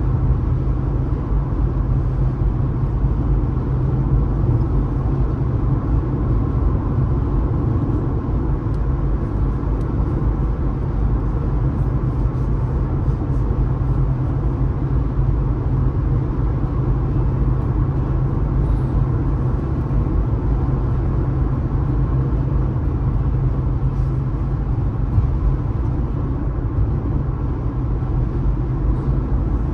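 Steady road noise of a car driving: an even, low rumble of tyres and engine that does not change.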